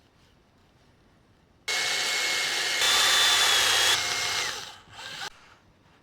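Small high-speed power tool motor running for about three and a half seconds, starting about two seconds in, with a steady high whine that steps louder and higher for about a second in the middle, then winding down with a short final burst.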